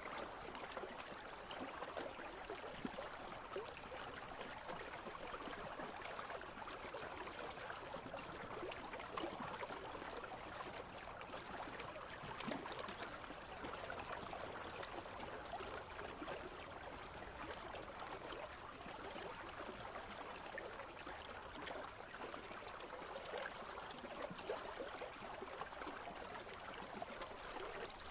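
Country stream running over stones, a steady babbling trickle.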